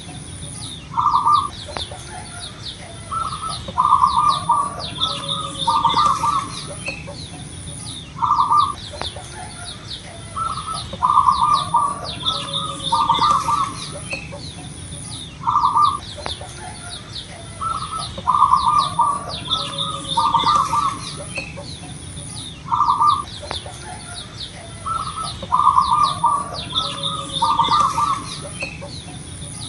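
Zebra dove (perkutut) cooing: groups of short, rolling coo notes that repeat in the same pattern about every seven seconds. Busy high chirping runs behind the coos.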